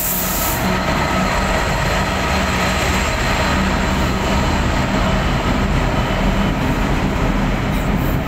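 Class 66 diesel freight locomotive, a two-stroke V12, running as it passes, giving way to container wagons of a refuse train rolling past on the rails.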